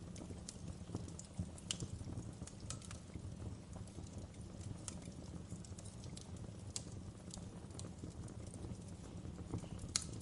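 A fire crackling: irregular sharp pops and snaps over a steady low rumble, with one louder pop near the end.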